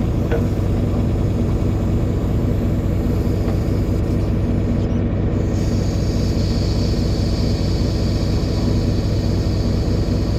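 Air compressor motor running steadily while inflating a large tractor tire. About halfway through, a steady high hiss of air joins it.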